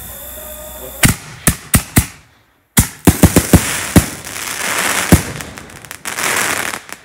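Fireworks going off: a run of sharp bangs starting about a second in, then after a brief break a quicker volley of bangs, followed by two stretches of dense crackling that stop abruptly near the end.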